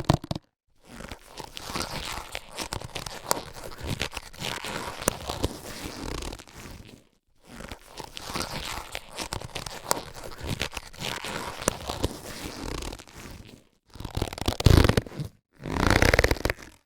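Latex surgical gloves being handled and stretched: a rustling crackle in two stretches of about six seconds with a short break between them, then two short, louder bursts near the end.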